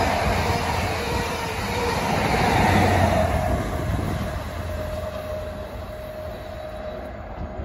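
A GWR High Speed Train with Class 43 diesel power cars passes at speed and pulls away. Its rumble and wheel noise are loudest in the first three seconds and then fade, and a steady high note from the receding train carries on over the fading rumble.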